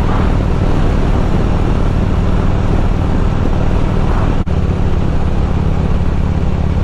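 Harley-Davidson Road King's V-twin engine running steadily while riding, with a brief dip in the sound about four and a half seconds in.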